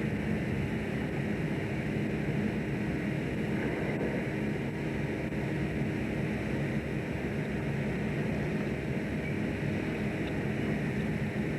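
Fishing boat's engine running steadily, a constant drone with a low hum.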